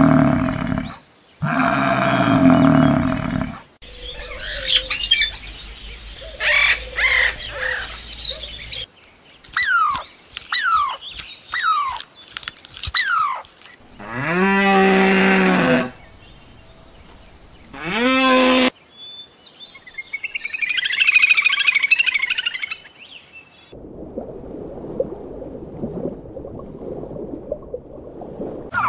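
A string of different animal calls, one clip after another. Two long, low pitched calls open it. Then come bird chirps and a run of quick falling whistles, two more long pitched calls, and a stretch of rustling noise and low hiss near the end.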